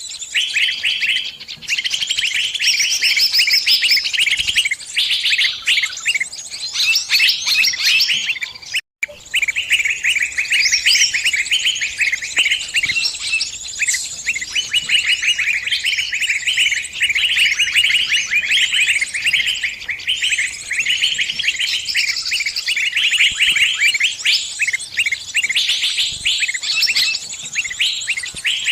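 A small bird's rapid, continuous high chirping: the distress calls of a trapped bird calling for help. The calls cut out briefly about nine seconds in, then carry on.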